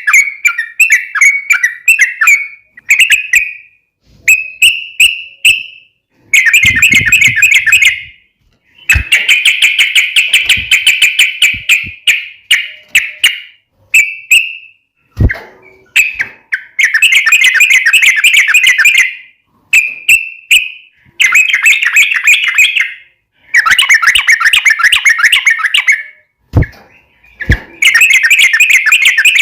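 Yellow-vented bulbul (trucuk) singing vigorously in rapid, chattering phrases of one to three seconds, separated by short pauses. A few sharp knocks fall between the phrases.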